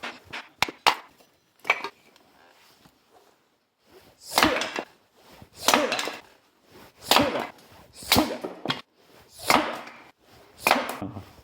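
Firewood being split by hand with repeated chopping strikes. A few light knocks come at the start, then heavy blows land steadily, about one every second and a half.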